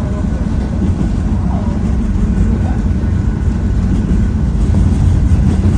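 Harz narrow-gauge train running, a loud steady low rumble.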